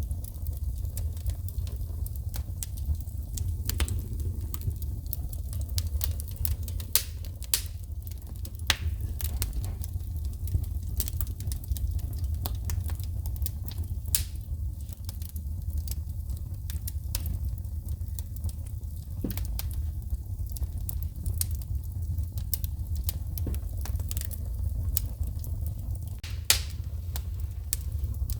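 Wood fire burning in a fireplace with a steady low rumble, crackling and popping irregularly as sparks shoot, with a few sharper loud pops.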